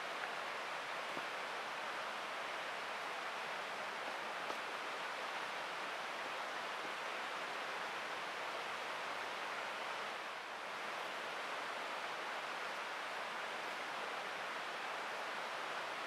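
Steady rushing of flowing water, like a nearby mountain stream, with a couple of faint ticks. The sound dips briefly about ten and a half seconds in.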